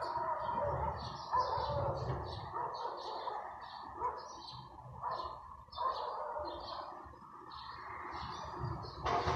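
Small birds chirping over and over, about two short high chirps a second, over a steady background din, with a sharp click near the end.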